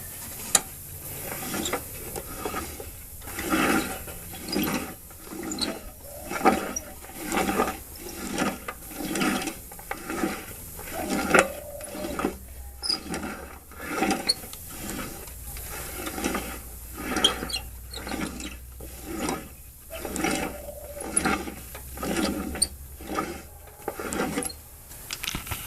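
Riding lawn mower pulley bearing grinding and scraping as the pulley turns, in a steady run of gritty surges a little more than one a second. The grit sounds like sand in the bearing, which the owner takes for a bad bearing.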